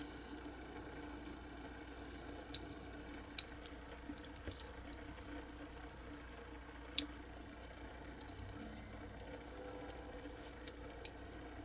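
A few scattered light clicks and taps, like small hard parts or tools being handled, over a steady low hum.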